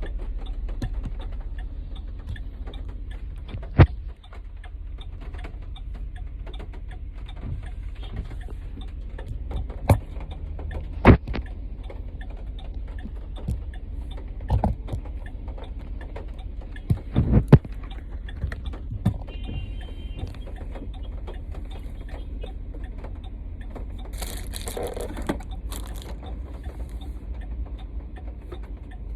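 Inside a car driving in heavy rain: a steady low rumble of the car on the road, with many light ticks and taps and a few sharp knocks. Near the end there is a brief hissing rush.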